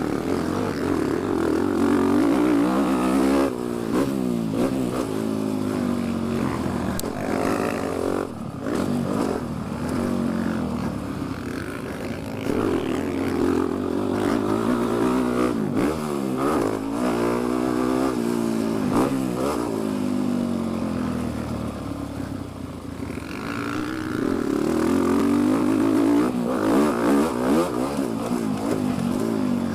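Dirt bike engine revving up and down as it is ridden around a motocross track, rising and falling with throttle and gear changes, heard from a microphone inside the rider's helmet.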